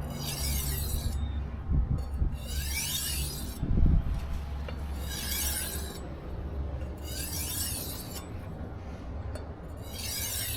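Steel knife edge scraping across a whetstone in five slow edge-leading strokes, each about a second long and about two seconds apart. These are light deburring strokes that take the burr off the edge.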